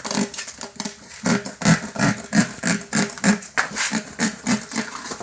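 A knife sawing through the rubber of a car tire, in quick rhythmic strokes about three a second.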